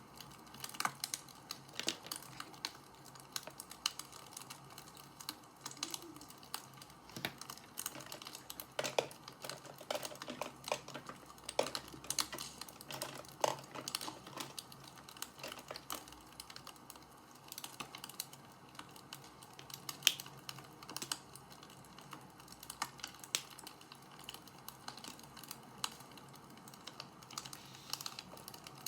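Wood fire crackling: irregular sharp pops and clicks over a faint steady hiss.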